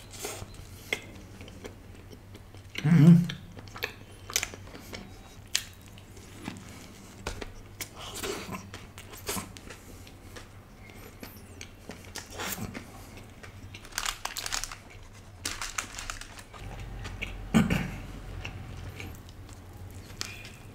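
Close-miked chewing and biting of a burger: soft wet mouth sounds with scattered small crunches and crackles. Louder moments come about three seconds in and again near the end.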